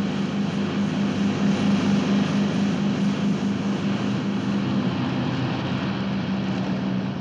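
Motorboat engine running steadily at speed, a low pulsing drone over a wash of engine and water noise.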